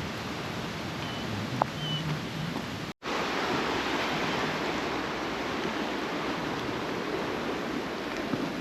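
Steady hiss of heavy rain, broken by a brief cut about three seconds in, after which it is slightly louder.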